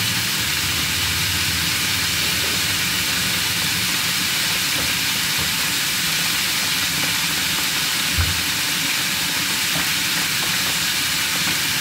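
Zucchini and jalapeño chiles sizzling steadily in pans on the stove: a constant frying hiss. A brief low thump about eight seconds in.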